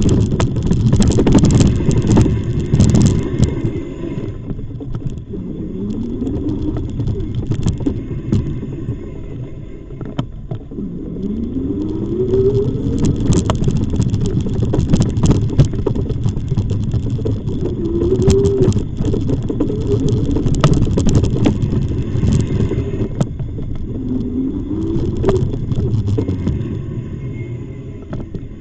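Riding an e-bike: wind buffeting the microphone with a heavy rumble, and the bike rattling and knocking over the path surface. A short rising whine comes in now and then, about four times.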